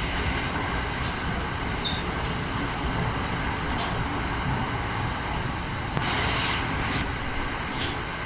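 Passenger train running on the rails: a steady rumble, with a brief higher hiss about six seconds in.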